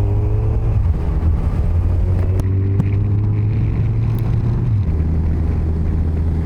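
Yamaha FJR1300's inline-four engine accelerating through the gears, its pitch climbing and then dropping at upshifts about a second in and again near five seconds, with steady wind and road noise.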